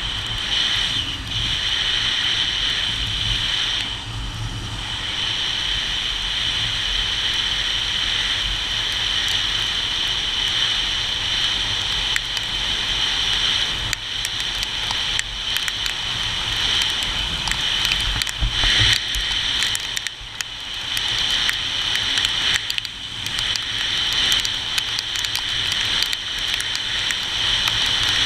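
Rain pattering steadily, a dense crackle over a low rumble.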